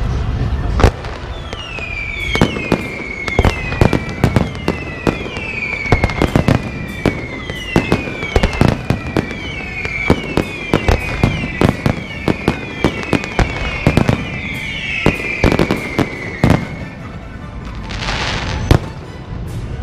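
Whistling fireworks going off: a rapid series of sharp bangs over a string of whistles, each falling in pitch, about one a second. A brief hiss comes near the end.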